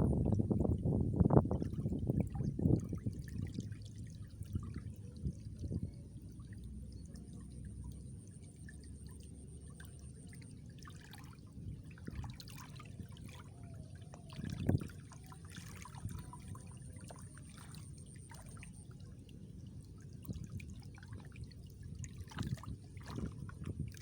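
Water splashing in a flooded rice paddy, loudest in the first few seconds, then trickling quietly, with one louder splash or thump about fifteen seconds in.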